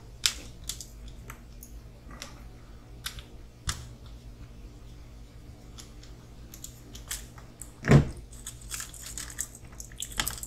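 Small plastic parts of an RC crawler kit being handled and fitted at a workbench: scattered light clicks and ticks, with one loud thump about eight seconds in. A low steady hum runs underneath.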